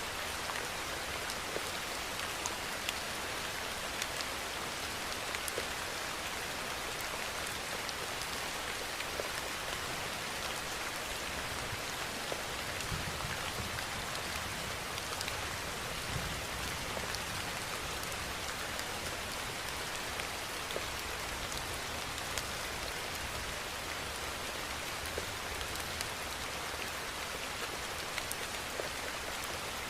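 Steady rainfall: an even hiss of rain with scattered individual drops ticking close by.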